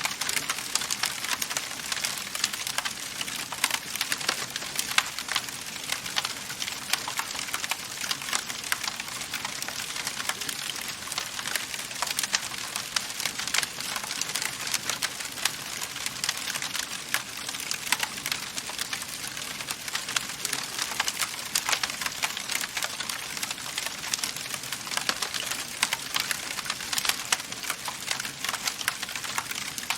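Wood fire crackling in a fireplace: a steady hiss of burning with many small crackles and pops scattered densely throughout.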